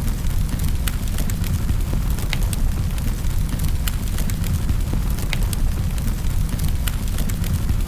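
Wood fire crackling in a fireplace: sharp irregular pops and snaps, several a second, over a steady low rumble of the flames.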